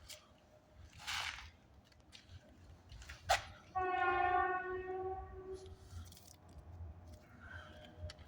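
A horn sounds one steady tone for about two seconds and fades away, just after a sharp click. A brief hiss comes about a second in.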